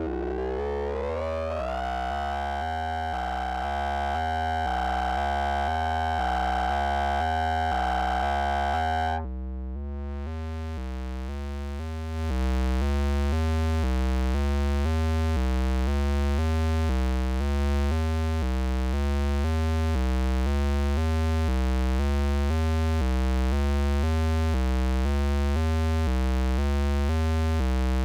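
Electronic synthesizer playing a repeating low bass sequence of alternating notes. Over it, a bright lead tone glides up in pitch, holds, and cuts off about nine seconds in. From about twelve seconds the sequence gets louder and fuller, with a hiss of noise on top.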